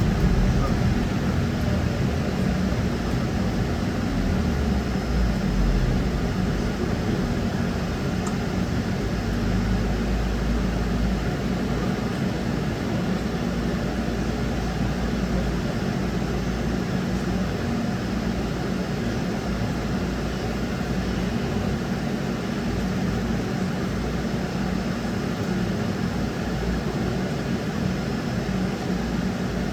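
Moving trolleybus heard from inside the passenger cabin: a steady low rumble of the tyres and electric drive on the road.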